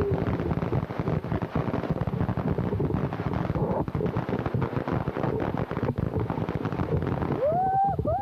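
Consumer fireworks going off in quick succession: a dense, unbroken run of crackling pops and bangs.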